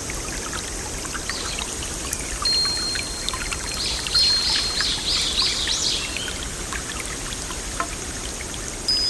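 Steady running water, like a stream trickling, with a songbird singing over it: a held high whistle, then a quick run of repeated high notes about halfway through, and another whistle near the end.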